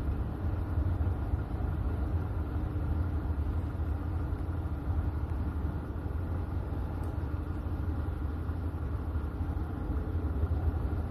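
Steady low rumbling hum of background machinery with faint steady tones over it, even throughout, with no knocks or clicks standing out.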